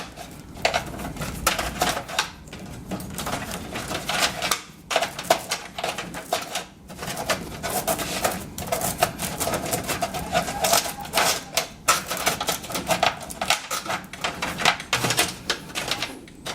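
A quick, irregular run of small clicks, taps and rustles from cables and plastic connectors being handled and arranged inside a desktop PC case.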